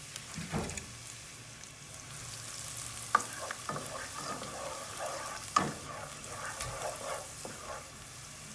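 Chopped garlic and curry powder frying in hot oil, sizzling steadily: the curry being 'burned' before the meat goes in. A spoon stirs and scrapes against the pot, with two sharp knocks, about three and five and a half seconds in.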